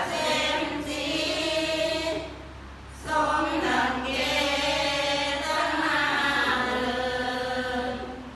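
A group of voices chanting together in a Buddhist chant on long held notes, breaking off briefly a little over two seconds in and then resuming.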